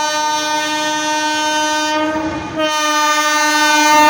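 A horn sounding one long, loud, steady note. It breaks off briefly about two and a half seconds in and comes back at a slightly lower pitch.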